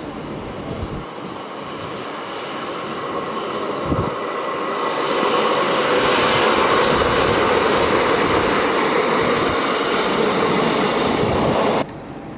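A train passing on the line: its rushing rail and wheel noise builds to a loud, steady level, then cuts off suddenly near the end.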